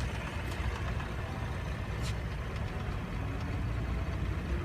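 Steady low background rumble of vehicle engine noise, with a couple of faint ticks.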